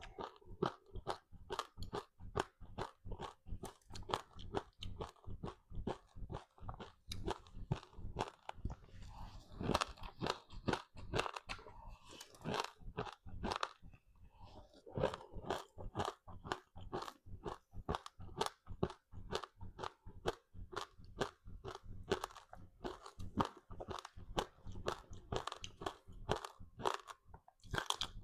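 Close-up crunching and chewing of a crispy seaweed-coated rice snack: a steady run of crisp crunches, about three a second.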